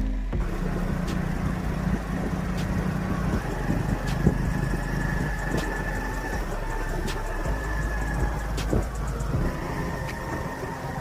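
A motor vehicle engine running.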